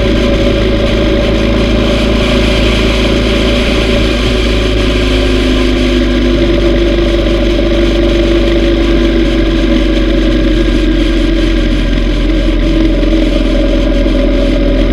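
Yamaha V Star 950's air-cooled V-twin engine running steadily while riding on the road, loud and even throughout.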